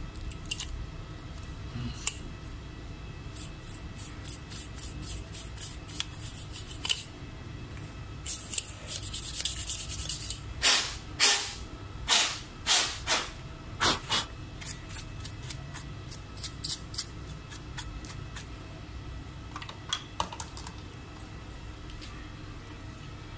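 Short scratchy rubbing and brushing strokes on a laptop mainboard being cleaned, with a quicker, louder run of strokes about halfway through, over a steady low hum.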